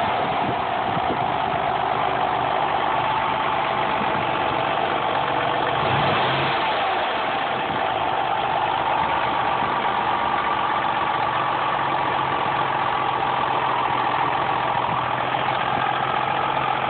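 Mercury Cougar's 2.5-litre Duratec V6 running steadily, with a strong high-pitched whine over the engine note; about nine seconds in a second, slightly higher whine joins it. The whine is the weird noise the owner links to the power steering pump.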